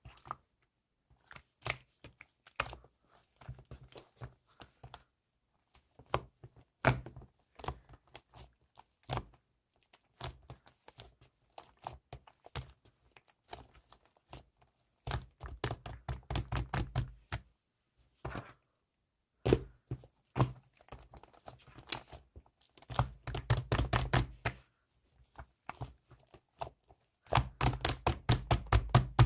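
Irregular sharp clicks and light knocks, sparse at first, then coming in quick runs of several a second, the densest near the end.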